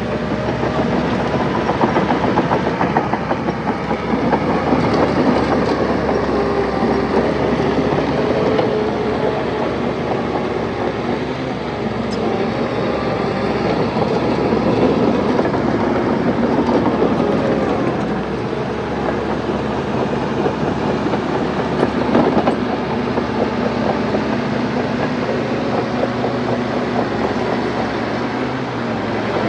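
Crawler bulldozer's diesel engine working under load, with its steel tracks clanking and rattling steadily.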